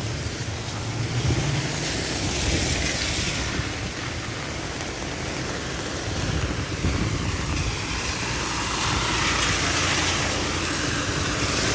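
Steady hiss of rain and tyres on a wet road, with a low rumble of passing traffic.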